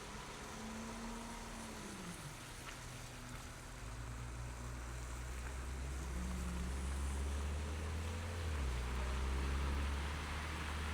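City driving sound on snowy streets: a vehicle engine's hum and steady road hiss. The engine tone drops in pitch about two seconds in, and a deeper hum builds from about four seconds.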